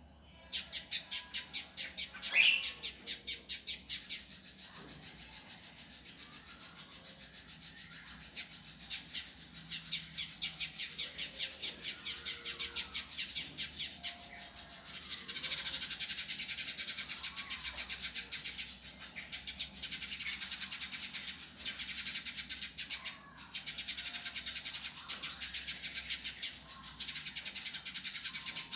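Indigo bunting singing a fast, rough, tightly packed chattering song: rapid high notes at about ten a second in long runs, louder from about halfway, with short breaks.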